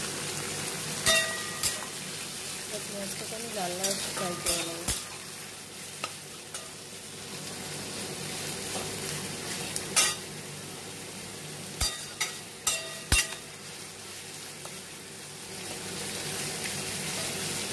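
Sliced onions sizzling in hot oil in a metal pan while a flat metal spatula stirs them. The spatula clinks and rings against the pan now and then, several times in quick succession around the middle of the stretch.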